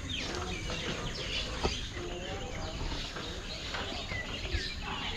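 Several birds chirping and whistling together in a busy morning chorus of short, overlapping calls, over a steady low rumble, with two brief knocks.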